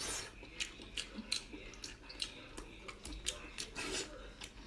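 Close-up mouth sounds of someone eating boiled whole octopus: wet bites, chewing and lip smacks, heard as many short sharp clicks and squelches scattered through.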